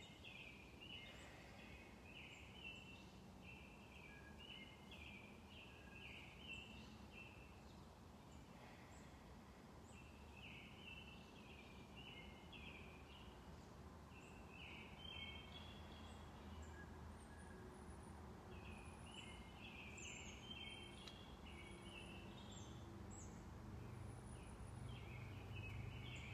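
Faint birds chirping in short repeated phrases, with some higher thin notes in the second half, over quiet outdoor background noise; a low rumble grows near the end.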